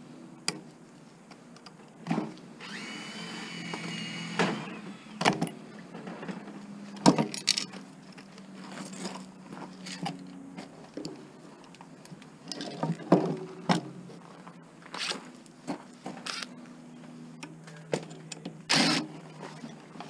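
Hand tools clinking and knocking against metal motor parts while a gear is worked off its shaft, with a brief high-pitched squeal about three seconds in.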